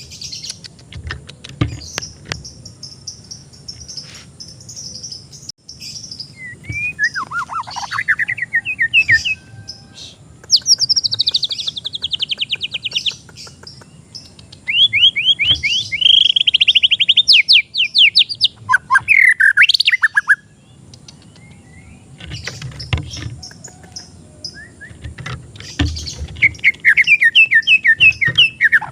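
White-rumped shama (murai batu) singing in separate phrases of fast trills and rapidly repeated notes mixed with sweeping whistles, with short pauses between phrases.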